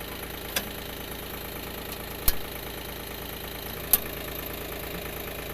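Tractor engine idling steadily, with three sharp knocks over it, the loudest about two seconds in.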